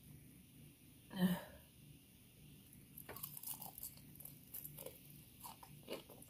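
Close-up crunching and chewing of a bite of sauce-coated Popeyes fried chicken, the breading crackling in quick, irregular clicks from about three seconds in. A short vocal sound comes about a second in.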